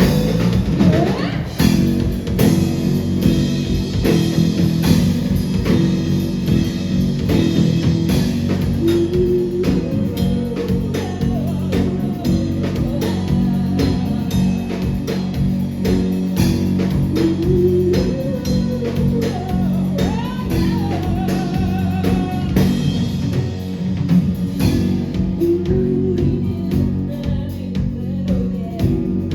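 Live band music played loud: guitars, bass and a drum kit, with a melody line that bends in pitch and sounds like singing.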